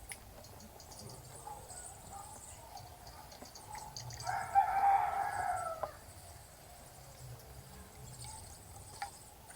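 A rooster crows once, about four seconds in, a single call lasting under two seconds, over faint high chirping of small birds.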